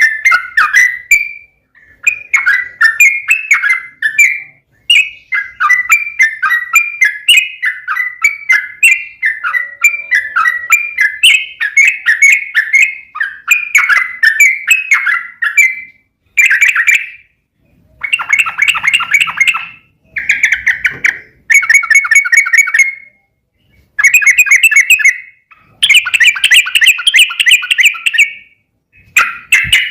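Yellow-vented bulbul (trucukan) singing a long, rapid run of bubbling chirped notes. About halfway through, the song breaks into shorter bursts of a second or two with brief pauses between them.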